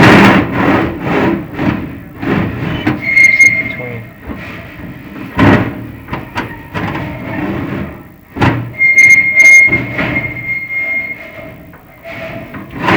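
Video inspection camera and its push rod scraping and rubbing inside the metal flue of a Marco prefabricated fireplace, in irregular strokes. A high squeal comes briefly about three seconds in and again, longer, around nine seconds in.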